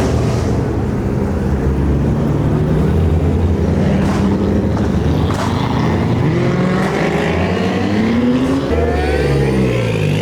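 Car engine accelerating hard: the revs climb steadily for a couple of seconds, drop near the end as it shifts gear, then climb again.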